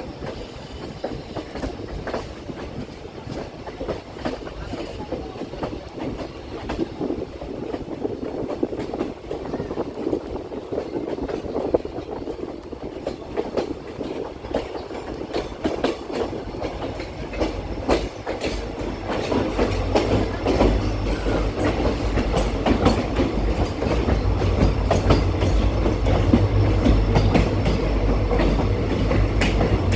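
Passenger train running, its wheels clicking and clacking over the rail joints with steady running noise. About two-thirds of the way through, a deep rumble comes in and the sound grows louder.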